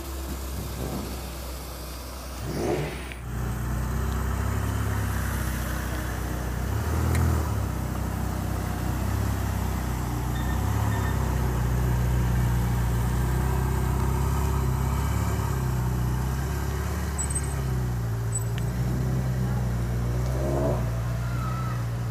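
Ferrari sports car engines running at low speed and idle as the cars crawl past, a steady low engine hum with a brief louder swell about three seconds in.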